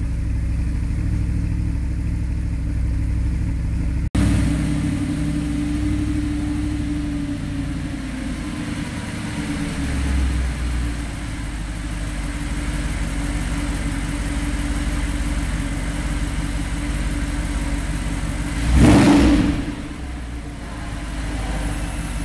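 Audi R8 Spyder's 4.2-litre V8 idling steadily, with a light swell in revs about ten seconds in and a short, sharp rev blip near the end.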